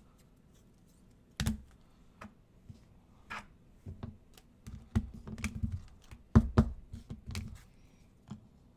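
Irregular clicks and light knocks of things being handled on a desk, about a dozen taps with uneven gaps, the loudest about a second and a half in and again past six seconds.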